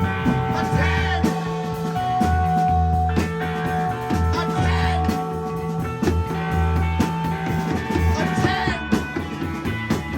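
Live rock band playing: held notes over a pulsing bass line, with drum hits keeping a steady beat.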